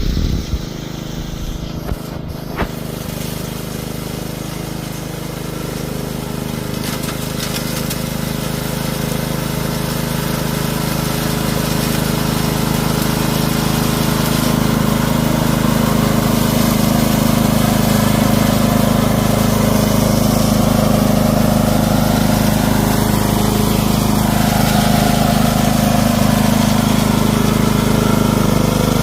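Cordless electric weeder running with a steady motor hum and cutting noise, growing louder over the first ten seconds or so and then holding steady. A few sharp knocks in the first couple of seconds.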